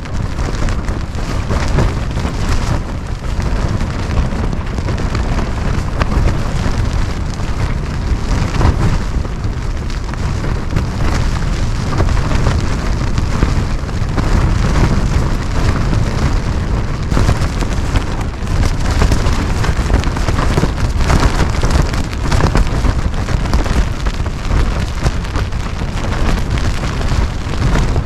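Strong wind gusting against a camping tent: the fabric flaps and rattles while the gusts rumble heavily on the microphone.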